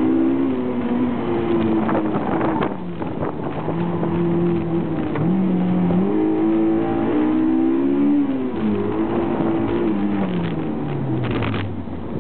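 Honda S2000 engine under hard acceleration and braking on an autocross course, its pitch rising and falling again and again as it revs, shifts and slows between corners. The note drops away near the end as the car slows.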